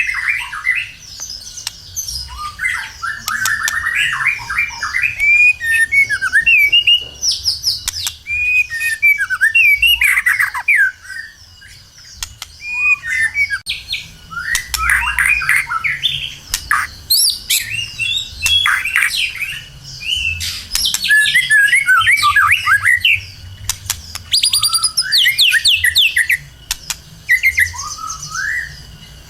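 White-rumped shama (murai batu) singing continuously. It runs through fast, varied phrases of sweeping whistles, trills and chattering notes, with short pauses between them.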